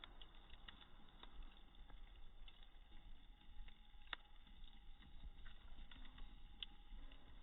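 Faint crackling of a wood bonfire: scattered small pops and ticks, with two sharper pops about four seconds and six and a half seconds in.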